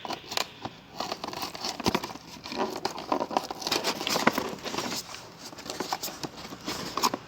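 Packaging of a transmission filter kit being opened by hand: irregular crinkling, rustling and tearing with small clicks.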